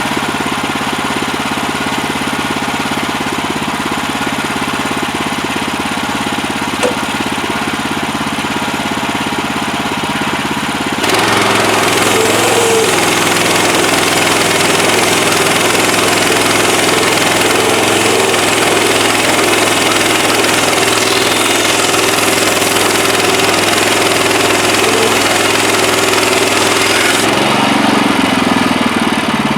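Woodland Mills HM130MAX bandsaw mill's gas engine running steadily. About eleven seconds in, the sound steps up louder with a hiss as the blade goes into the log under load. Near the end the engine note rises again.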